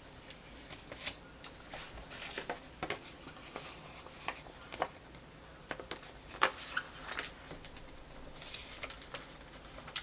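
Paper planner stickers being handled: light rustling of sticker sheets and paper, with scattered small ticks and taps as stickers are peeled and pressed down on the page.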